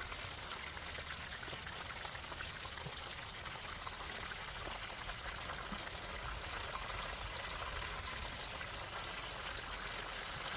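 Steady rush of flowing water, with faint small ticks over it.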